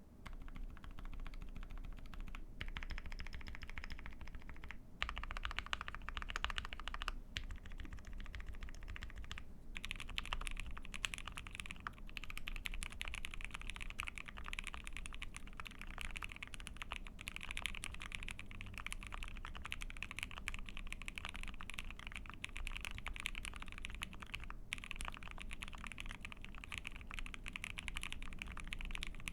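Steady typing on an ai03 Vega mechanical keyboard with a POM plate, GMK keycaps and Gateron 8008 Inks linear switches lubed with Krytox 205g0: a continuous run of key strikes with a few brief pauses.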